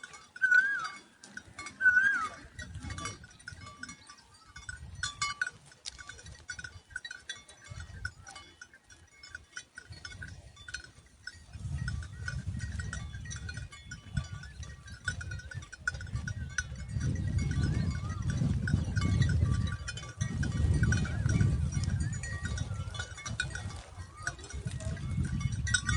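Woodshrike nestlings calling: short, bending chirps repeated every second or so, loudest in the first few seconds. A low rumbling noise comes in about halfway through.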